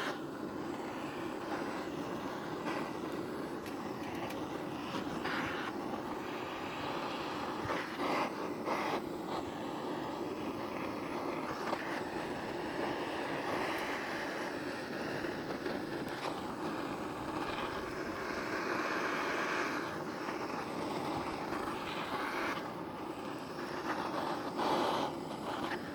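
Firewood being lit in a camping fire pit: a steady rushing roar, with a few sharp snaps scattered through it.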